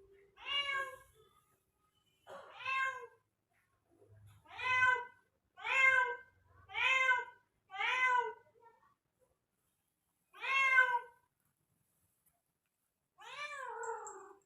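Tomcat meowing over and over, about eight calls that each rise then fall in pitch. Several come about a second apart, and the last is longer and drawn out, sinking at the end. This is the calling of a male cat wanting to mate.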